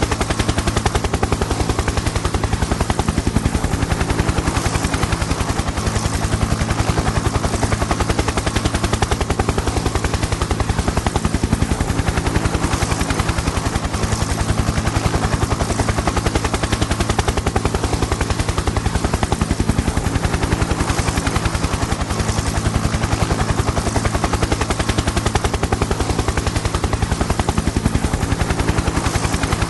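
Helicopter in flight: rotor blades chopping in a fast, even beat over a steady engine drone, unchanging throughout.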